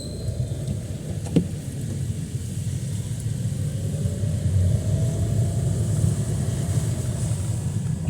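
Steady low rumble of motor traffic on a rain-soaked street, with a faint hum that rises and fades as a vehicle passes. There is a single sharp click about a second and a half in.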